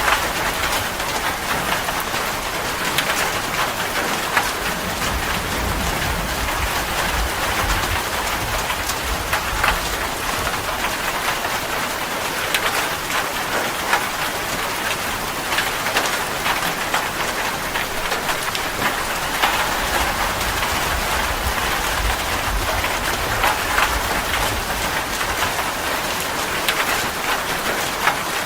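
Steady heavy rain hissing and pattering, with countless individual drop ticks and a low rumble now and then.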